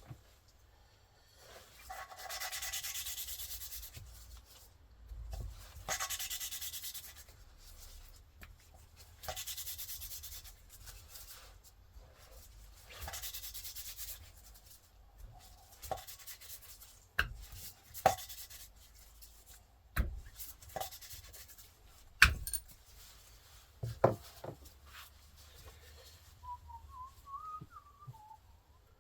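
Engine valve being lapped into its seat with grinding compound: four gritty rubbing bouts of about two seconds each, followed by scattered sharp knocks and taps.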